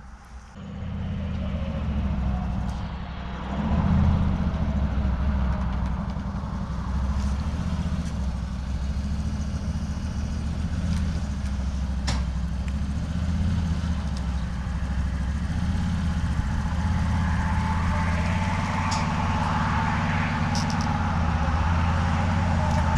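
Tow vehicle driving on the road with a loaded trailer behind, a steady low engine and road rumble that grows louder about four seconds in.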